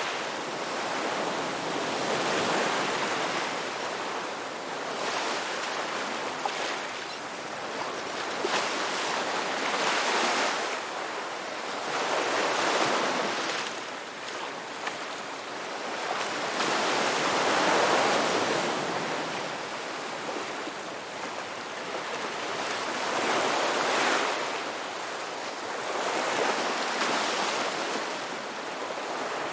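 Sea waves breaking and washing on a shore, a continuous hiss that swells and eases every few seconds as each wave comes in and draws back.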